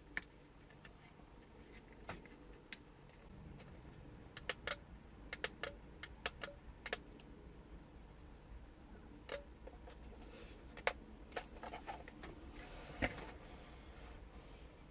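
Scattered light clicks and taps of small parts and tools being handled during the repair of toy RC tanks, in clusters of quick clicks, with a short rustling stretch about two-thirds of the way through.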